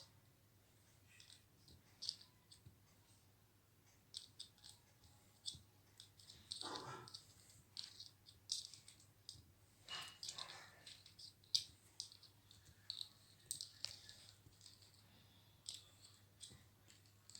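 Ringneck parrot playing with its toys: scattered light clicks, taps and rattles of beak on toy, with a couple of short scratchy rustles.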